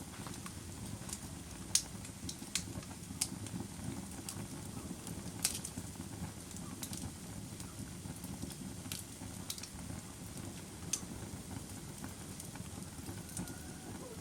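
Bonfire crackling: irregular sharp pops of burning wood, about one every second or two, over a steady low rumble.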